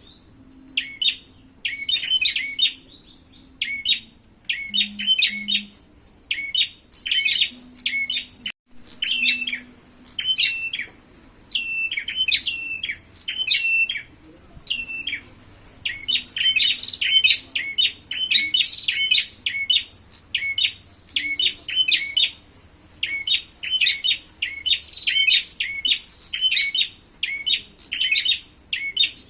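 Prenjak birds (prinias) calling in a fight: fast runs of sharp, high chirps, nearly continuous with short pauses, broken by a split-second dropout about eight seconds in.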